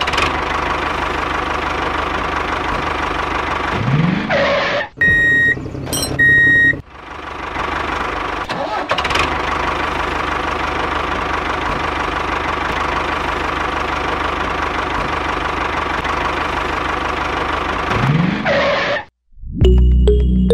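Tractor engine running steadily with a knocking diesel note, broken by two short high beeps about five and six seconds in. It stops abruptly near the end and music begins.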